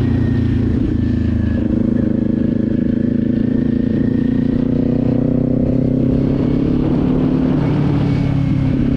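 Kawasaki Z400 parallel-twin motorcycle engine running steadily at a cruise, its pitch drifting only slightly.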